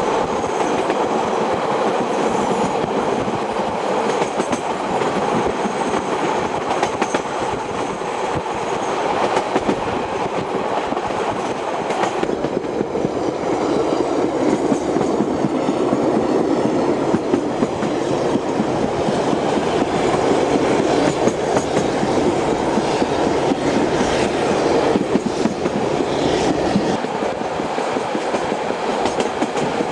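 Passenger train running along the track, heard from aboard: a steady running noise of the carriage with scattered clicks from the wheels on the rails. The tone of the noise changes abruptly about twelve seconds in.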